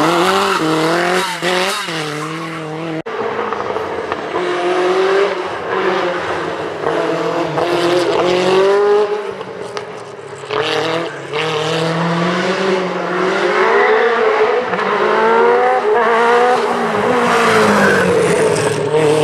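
Group B rally car engines at full throttle, the pitch climbing through each gear and dropping back at every shift, with some tyre noise. The sound changes abruptly about three seconds in, as the footage switches to another car.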